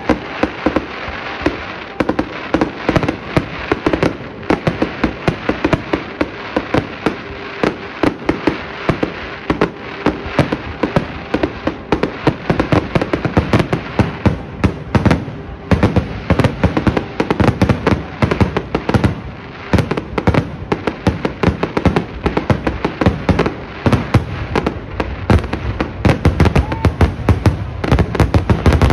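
Aerial fireworks display going off in a dense, unbroken barrage: shell bursts and crackling, several sharp reports a second.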